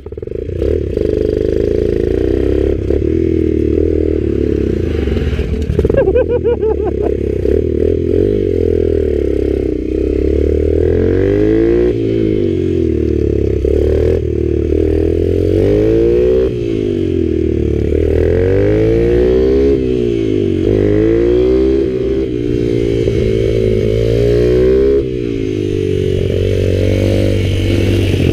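Mini bike (pit bike) engine ridden hard on a track, its revs rising and falling over and over as the rider works the throttle and gears through the corners.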